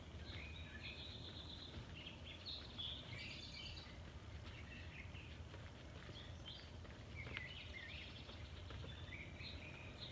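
Small songbirds chirping and singing in short, repeated phrases over a steady low background rumble.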